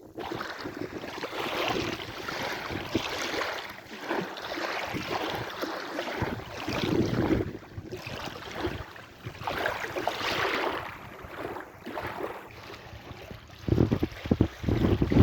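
Sea waves washing in and pulling back, the hiss of water rising and falling every couple of seconds. Wind buffets the microphone in rough gusts near the end.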